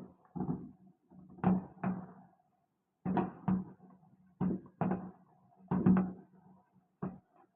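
Fireworks going off: a series of irregular sharp bangs, several in quick pairs, each with a short echo after it.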